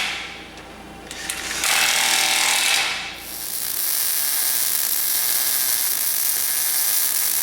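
Electric welder welding a bead, an even crackling hiss. A short burst comes about two seconds in, and after a brief pause a longer bead runs steadily on.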